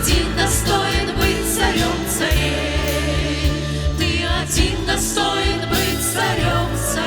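A vocal group singing a worship song with instrumental accompaniment and a steady bass line.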